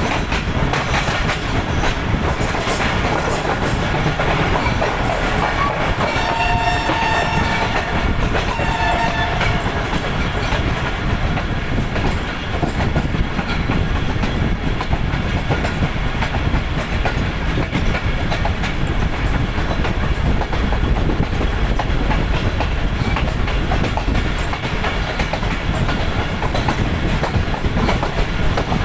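Pakistan Railways passenger coaches running over the track, heard from an open coach window: steady wheel clatter and rush of air. About six seconds in, a train horn sounds twice briefly.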